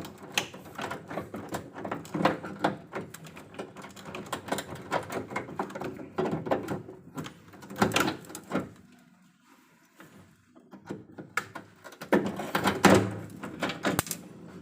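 Irregular knocking, clattering and scraping of hands and tools working on an electrical distribution panel, pausing briefly about nine seconds in, then a louder run of knocks near the end.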